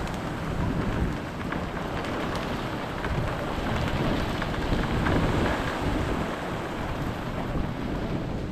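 Heavy rain falling steadily in a severe thunderstorm, with a low rumble underneath.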